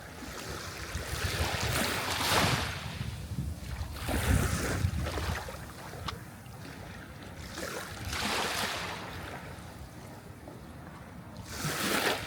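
Sea waves breaking and washing onto the shore: four swells of hissing surf, at roughly two- to four-second intervals, over a steady low rumble.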